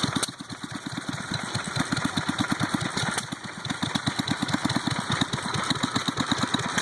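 Antique stationary gas engines running, the nearest an International Harvester Model M belted to a washing machine, giving a steady, even chugging at about eight beats a second.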